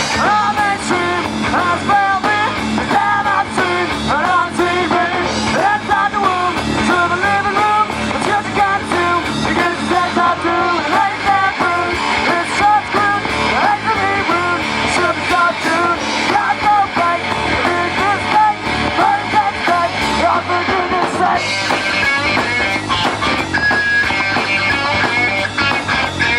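Live rock band playing a song, with electric guitar to the fore over a steady drum beat.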